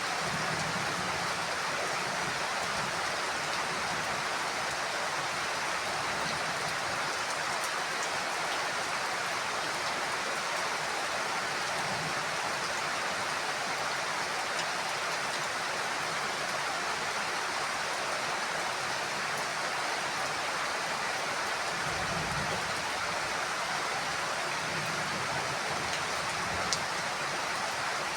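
Heavy rain falling steadily: a dense, even hiss of rain with no break.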